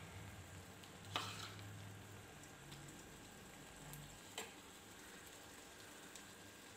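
Chicken omelette frying faintly in an aluminium pan over low heat while a metal spoon spreads raw egg across its top, with two light clicks of the spoon against the pan, about a second in and again a little after four seconds.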